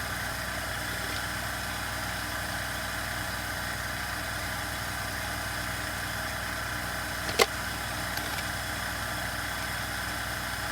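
Steady mechanical hum in the background, with a single sharp click about seven seconds in.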